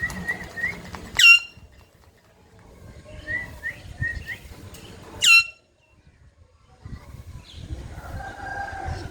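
Pet parrot giving a run of short chirps, then a loud, shrill screech that drops in pitch; this happens twice, about four seconds apart.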